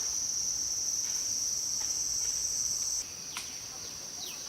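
Steady, high-pitched insect chorus buzzing continuously. It drops a little in level about three seconds in, and a couple of short, falling bird chirps come in near the end.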